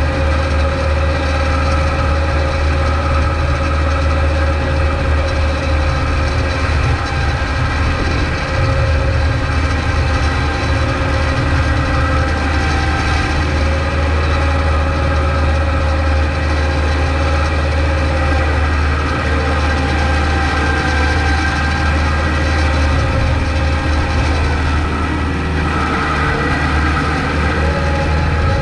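Kubota MX5200 tractor's diesel engine running steadily, a deep even hum with a steady higher whine above it.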